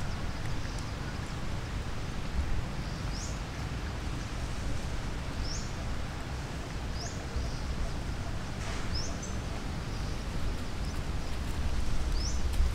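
A bird giving short, high, rising chirps, about six of them a second or two apart, over a steady low outdoor rumble.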